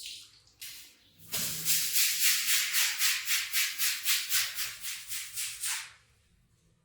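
A wet rug being scrubbed with a brush in quick, even back-and-forth strokes, about four a second, starting about a second and a half in and stopping near the end.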